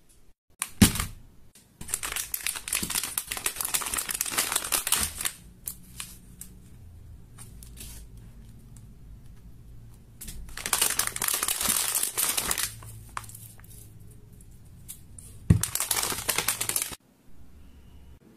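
Slime being squished and stretched by hand, making crackling, crinkling sounds in three bursts, each starting with a sharp click.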